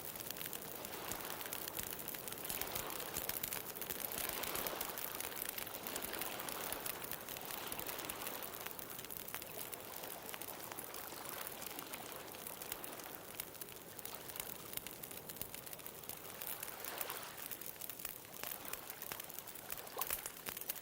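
Bonfire crackling with many small rapid pops, over the hiss of ocean waves that swell and wash in slowly, most strongly in the first few seconds and again near the end.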